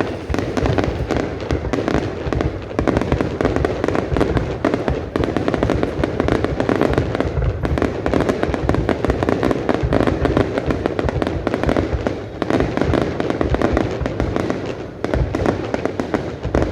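Fireworks display going off in a dense, continuous barrage of rapid bangs and crackling, loud throughout with a brief dip about fifteen seconds in.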